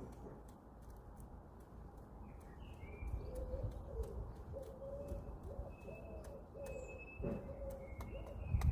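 Faint bird calls: a run of short, low calls repeated from about three seconds in, with a few higher chirps over them.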